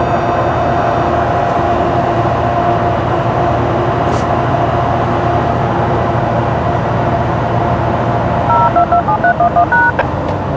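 GO Transit train running steadily, a low rumble with a constant hum. About eight and a half seconds in, a quick run of short electronic beeps at several different pitches starts over it.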